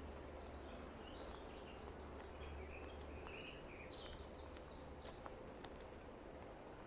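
Faint forest birdsong: a songbird sings a run of quick, high chirping notes through the middle, over a steady low rumble, with a few scattered faint clicks.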